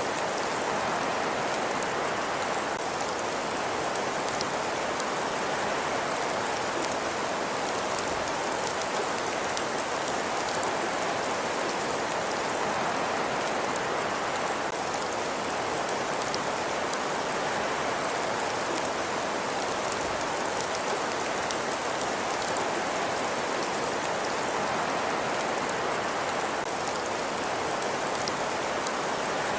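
Steady ambience of a crackling fireplace against a winter night: an even hiss with faint, scattered crackles and no change in level throughout.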